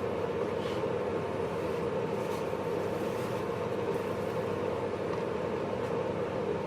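Inside a JR East 583 series electric sleeper train, in motor car MoHaNe 582-106, running along the line: a steady rolling noise with a hum.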